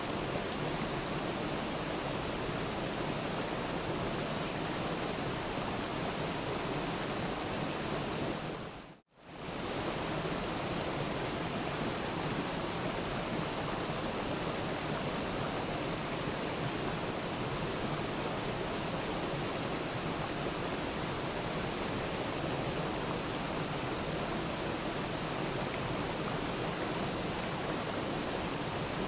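Steady rushing of a waterfall, an even wash of falling water. About nine seconds in it briefly fades to silence and then returns.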